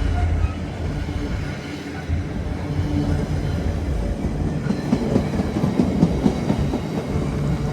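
Train running through a station: a steady low rumble with wheels clattering over the rail joints, the clatter busiest about five to six seconds in.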